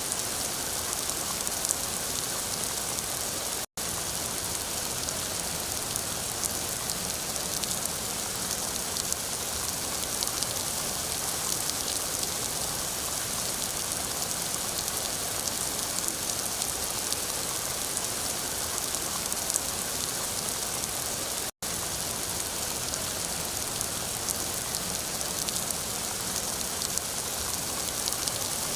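Steady rain falling, an even hiss with fine patter of drops, cut twice by a split-second gap of silence, about four seconds in and again a little past twenty seconds.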